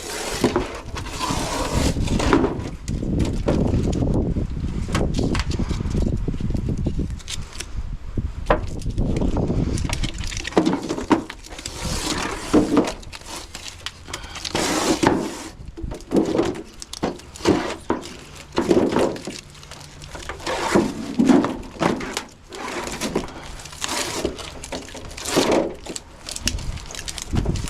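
Copper condenser tubing being pulled and peeled off a freezer panel's sticky adhesive, with crackling and tearing. The sound runs continuously for the first several seconds, then comes in irregular bursts of tearing and handling noise.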